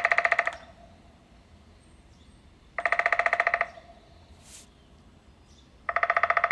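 Downy woodpecker drumming on wood: three short, fast rolls, each a little under a second long and about three seconds apart, with the wood ringing under the strokes.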